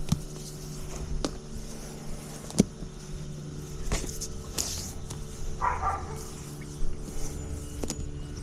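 Outdoor heat pump unit running with a steady hum. Several sharp clicks and knocks of handling are scattered through it.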